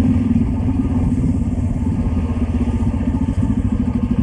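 Hero XPulse motorcycle's single-cylinder engine running steadily on the move, a rapid, even low thumping.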